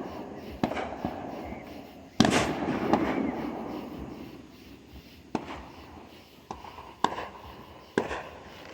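Fireworks going off: a series of about six sharp bangs. The loudest comes about two seconds in and is followed by a rumbling decay lasting a couple of seconds; the later ones are fainter.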